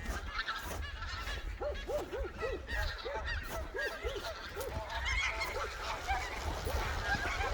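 A flock of geese honking: many short, arched calls overlapping, growing busier near the end, over a steady low rumble.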